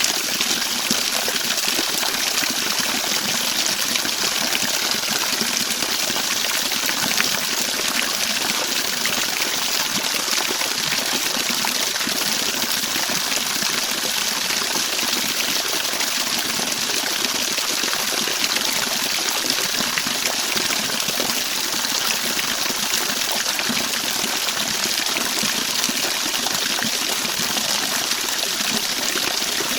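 Steady running water, an unbroken trickling and gushing that holds the same level throughout.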